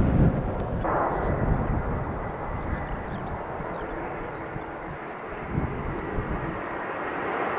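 Jet airliner engine noise: a steady rumble with a faint high whine, easing in the middle and building again near the end.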